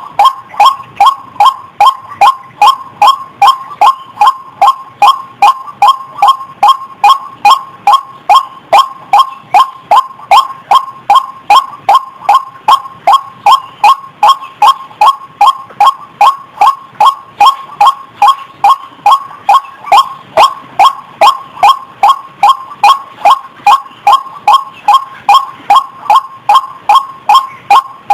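White-breasted waterhen (ruak-ruak) call played as a bird lure: a short, sharp note repeated about twice a second in a steady, even rhythm.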